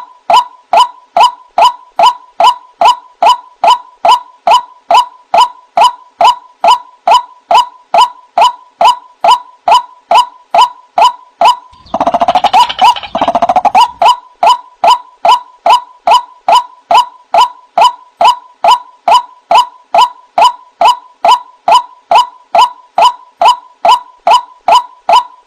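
White-breasted waterhen (ruak-ruak) calling: a steady, even run of short, slightly rising notes, a little over two a second. About halfway through, a harsher, denser chatter overlaps the notes for about two seconds.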